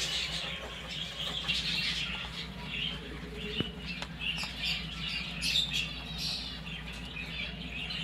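Many small aviary birds chirping and squawking, with short, high calls overlapping one another.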